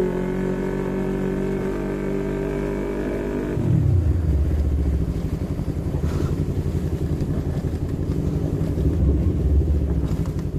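Yamaha MT-25's 250 cc parallel-twin engine running at steady revs, then dropping sharply about a third of the way in to a low, uneven idle rumble.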